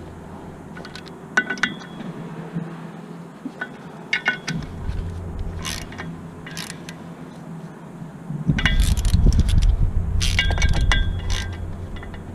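Metal tools and parts clinking and ringing as they are handled, a few separate light knocks early on, then a louder spell of rumbling handling noise with several ringing clinks about two-thirds of the way through.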